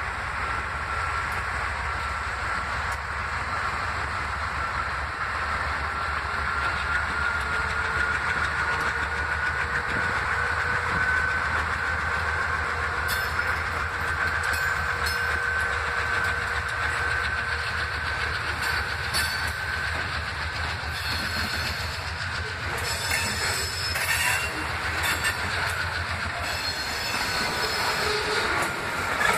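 Freight train rolling slowly past: a steady low rumble under a thin, high wheel squeal that drifts gently up and down in pitch. About halfway through the wheels start clacking over rail joints, and the clacks grow busier near the end as the boxcars go by.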